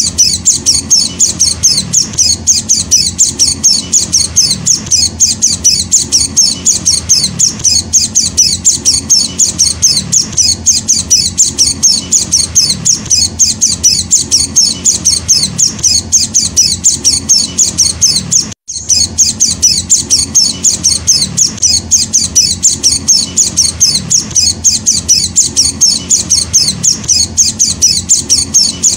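Young white-eye (Zosterops) chick giving rapid, high-pitched begging chirps, about three a second without pause; the sound cuts out for an instant about two-thirds of the way through.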